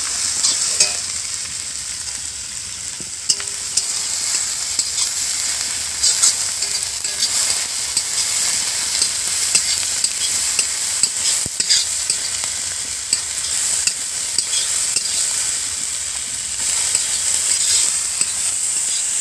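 Soaked soya chunks, tomato and spices frying in oil in an iron kadai, sizzling steadily while a spatula stirs and scrapes them around the pan with frequent short scrapes and taps.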